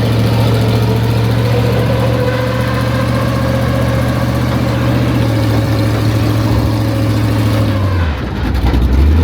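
Monster truck's engine running steadily with a deep hum. About eight seconds in the engine note dips and changes, then settles again.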